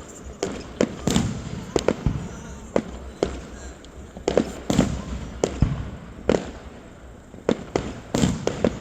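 Fireworks going off, a rapid, irregular run of sharp bangs, a dozen or more, each with a short echoing tail.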